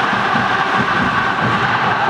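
Large crowd of Persebaya football supporters chanting loudly together, a dense, unbroken wall of voices.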